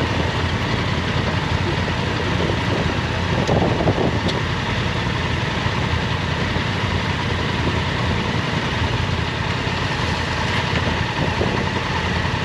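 Motorcycle engine running steadily at idle, with a brief louder moment about four seconds in.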